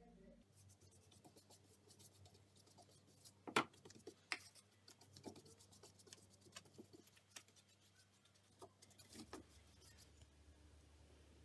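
Near silence with faint scattered clicks and light knocks, one sharper click about three and a half seconds in.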